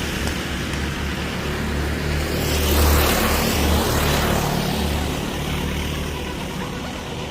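Racing go-kart engines running at speed on the track, swelling loudest as the karts pass close about three seconds in, then fading.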